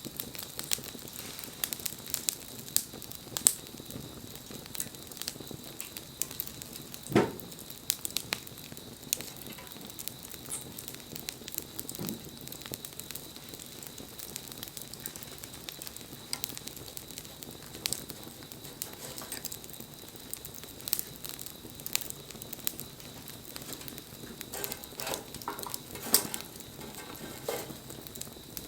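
Wood fire crackling, with a steady hiss and many irregular sharp pops; a louder pop about seven seconds in.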